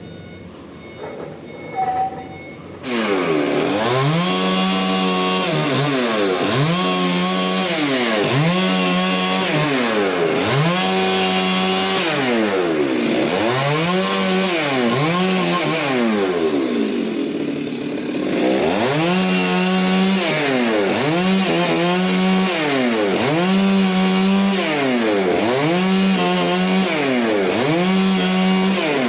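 Chainsaw engine revved over and over: each rev climbs to full speed, holds for about a second, then drops back, roughly every two seconds. It starts suddenly about three seconds in and breaks off briefly near the middle before going on.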